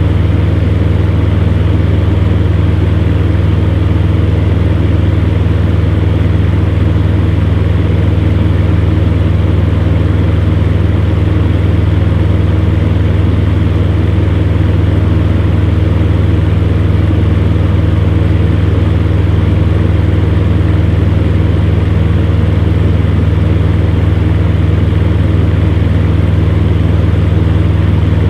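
Electric fan running steadily: a constant low hum under an even whooshing hiss, with no change in speed.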